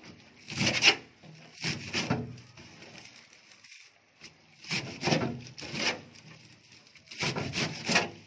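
Four bouts of rough scraping and rubbing strokes with short pauses between them.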